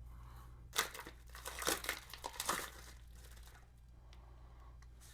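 Packaging crinkling and rustling as new brake pads are unwrapped, a burst of crackly rustles in the first few seconds that then dies down.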